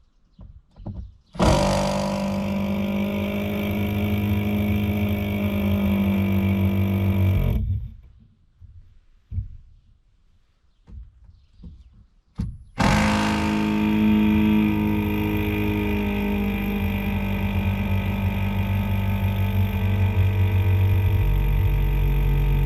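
Cordless power driver with a Torx T20 bit backing out screws, running in two long spells of about six and ten seconds with a steady motor whine, and small clicks in the pause between them.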